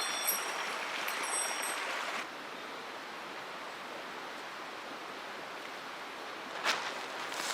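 Steady rush of a mountain stream flowing over rocks. It drops a little in level about two seconds in, with a few faint high tones before that and one sharp knock near the end.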